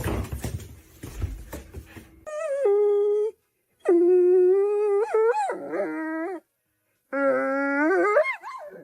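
Dog howling: three long, drawn-out howls that waver and slide up at their ends, starting about two seconds in after a brief stretch of noisy sound.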